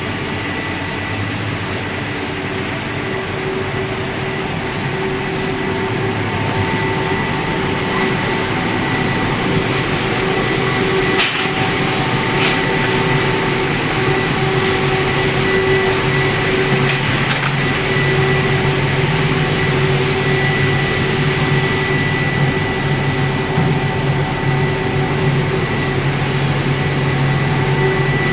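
8 HP engine of a small one-bag concrete mixer running steadily, with a steady hum and whine. It grows slightly louder and a little higher in pitch about halfway through, and a few sharp clicks sound around the middle.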